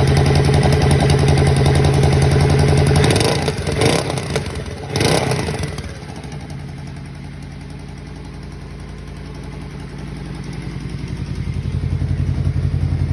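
A 2013 Yamaha Royal Star's V4 engine running at idle, with the exhaust leak that is being shown. It is loud at first, has a few sharp clattering bursts around the middle, drops quieter, and then swells back up near the end.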